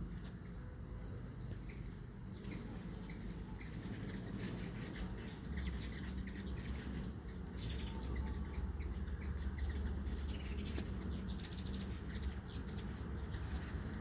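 Hummingbirds feeding at feeders: whirring wings and many short, very high chip notes scattered throughout.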